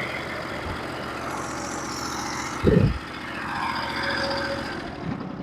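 Norwood HD36v2 bandsaw mill's engine running steadily, with a single thump about halfway through.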